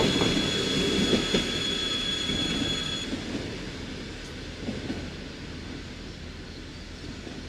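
Passenger coaches rolling over the crossing, their wheels rumbling and clattering on the rails with a high steady squeal that cuts off about three seconds in, then the train noise fading away as the last coaches pass.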